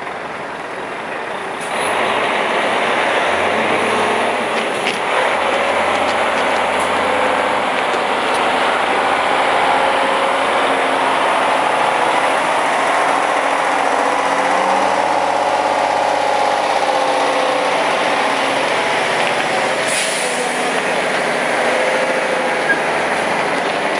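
Heavy-haul tractor-trailer moving slowly, its diesel engine running with tyre and road noise; the sound steps up in loudness about two seconds in and stays steady.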